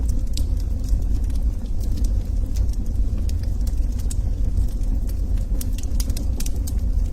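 Wood logs burning in a fireplace: a steady low rumble of flames with frequent sharp crackles and pops, which come thicker in the last couple of seconds.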